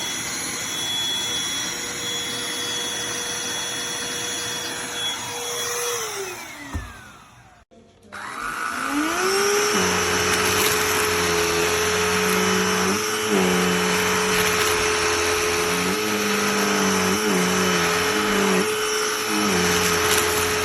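Cordless handheld vacuum motor running with a steady whine, then switched off about a third of the way in and winding down to a stop. Moments later it is switched on again, whines up to speed and runs steadily, its pitch dipping briefly a few times.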